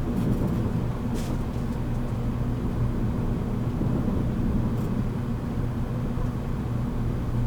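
Steady low hum and rumble inside car MoHa 783-13, a motor car of a JR Kyushu 783 series limited express train.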